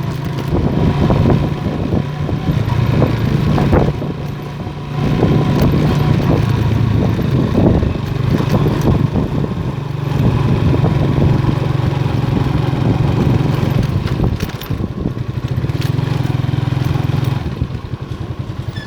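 Motorstar Star X 125's 125 cc motorcycle engine running while riding, its note rising and falling with the throttle and dropping off near the end, with rough road and wind noise over it.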